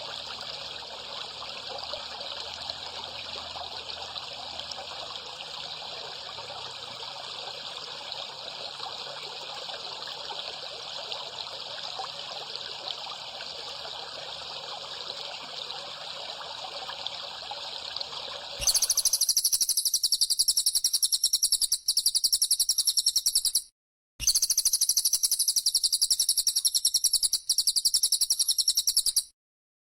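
Steady rushing of running water with faint bird chirps for most of the time, then, about two-thirds of the way in, an abrupt switch to a loud, rapid, high-pitched bird trill given in long unbroken runs with two brief breaks: recorded songbird sound played as masteran, song for a captive bird to copy.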